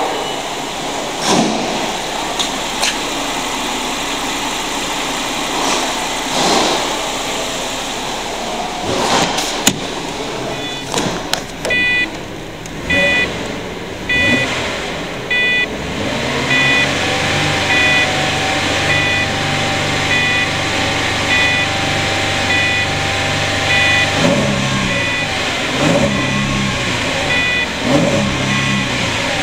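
2005 Holden Commodore's 3.6-litre V6 running at idle while a dashboard warning chime beeps repeatedly, then revved up and down a few times near the end.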